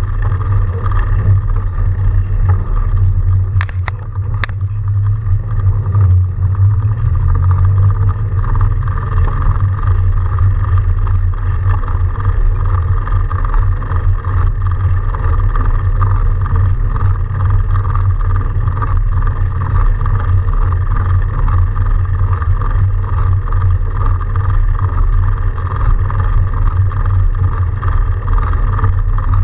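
Steady, loud, low rumbling drone of an electric-assist fat bike riding through snow. There are a couple of sharp clicks about four seconds in, and a low tone that rises in pitch a few seconds later.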